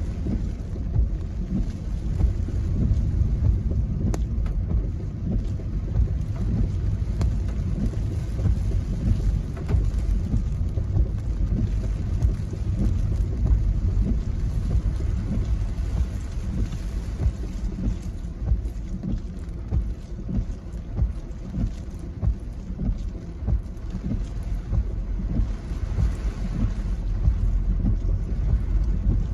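Gusty wind from an approaching typhoon buffeting the microphone: a constant low rumble that swells and dips with the gusts.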